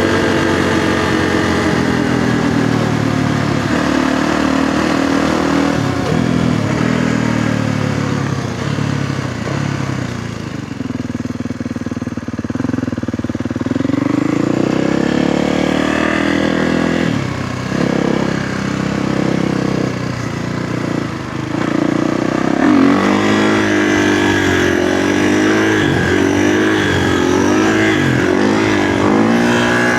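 Kawasaki KX450F dirt bike's single-cylinder four-stroke engine being ridden, revving up and down through the gears. It eases off around ten seconds in, then revs hard again, rising and falling repeatedly, from about twenty-two seconds.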